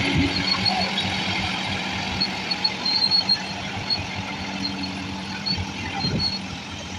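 Engine of a heavy machine running steadily, with short high squeaks scattered over it.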